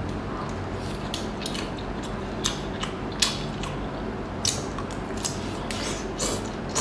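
Close-miked eating of small snails: about a dozen short, sharp clicks and sucks at irregular intervals as the meat is sucked from the shells.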